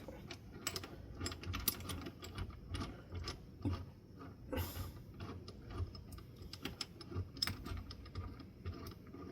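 Light, irregular metallic clicks and clinks as a small bearing puller is fitted onto a ceiling fan motor shaft to pull the bearing, with a short scrape about halfway through.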